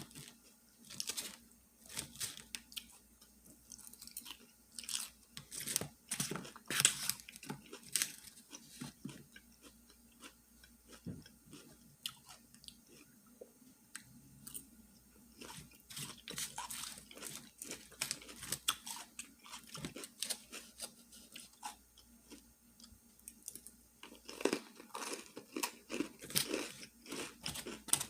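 Close-miked chewing and biting of food, with crisp crunches scattered throughout and a denser run of crunching near the end.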